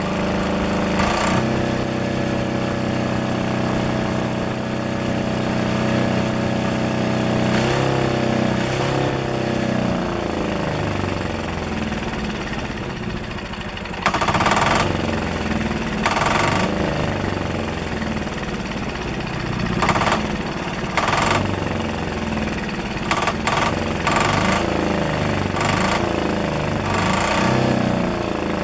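10 hp single-cylinder diesel engine, a Yanmar L100 clone (186F), running with its muffler still fitted, its speed shifting. About halfway through it grows louder, with a string of short loud bursts over the rest of the run.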